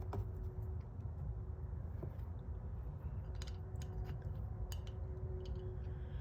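A few faint, scattered metal clicks as vanes are fitted into a 4L60E transmission oil pump rotor, over a low steady hum.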